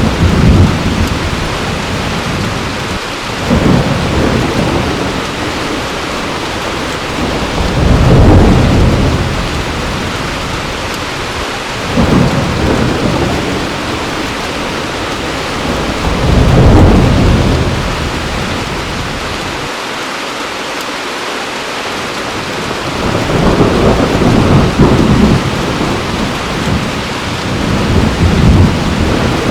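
Heavy rain falling steadily, with low rolls of thunder swelling and fading every few seconds.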